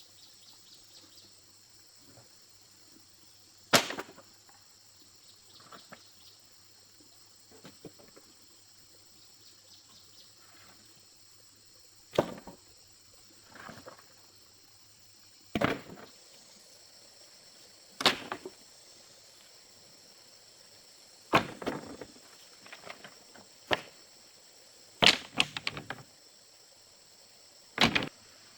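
Sharp blows on wood, one every two to four seconds, some with a quick second hit, louder toward the end. A steady high chorus of insects underneath.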